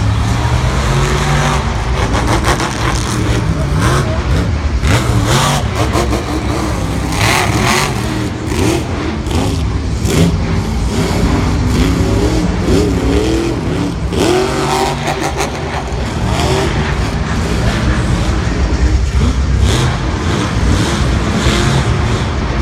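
Lucas Oil Crusader monster truck's supercharged V8 running loud and revving repeatedly, its pitch rising and falling as the driver works the throttle through the freestyle.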